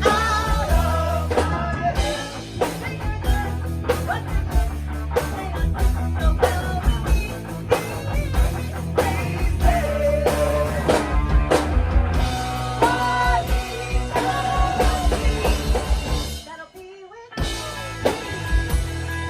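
Live rock band playing, with electric guitars, a drum kit and sung vocals. A brief break about three quarters of the way through, then the band comes back in.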